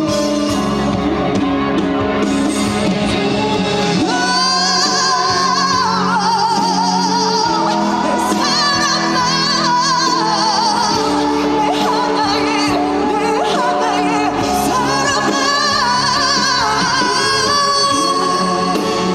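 A woman singing a trot song with vibrato over instrumental accompaniment through a concert sound system; her voice comes in about four seconds in, after a short instrumental passage.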